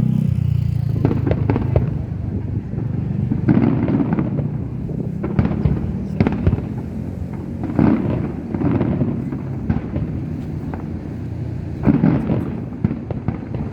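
Aerial fireworks going off in an irregular series of sharp bangs, a second or two apart, over a steady low background rumble.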